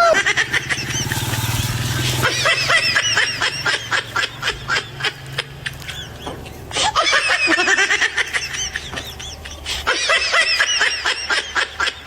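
Rapid, high-pitched laughter in repeated runs of short bursts, pausing twice.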